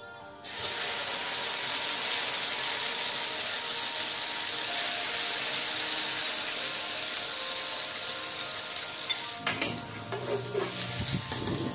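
A spoonful of shredded bamboo-shoot fritter mixture sizzles in hot oil in a frying pan. The sizzle starts suddenly about half a second in and stays loud and even. Near the end a metal spatula clatters and scrapes against the pan as the fritter is pressed into shape.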